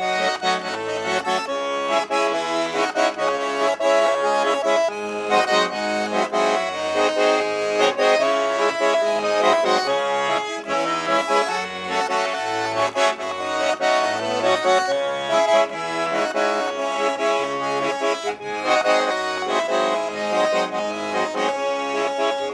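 Accordion playing the instrumental introduction of a song: a held melody over a pulsing bass line.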